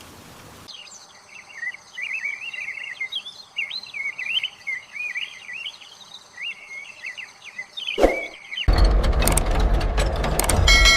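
Birds chirping and warbling over a steady high insect-like tone. About eight seconds in, a sharp whoosh, and then loud machinery starts running suddenly, with a low rumble and rapid clicks.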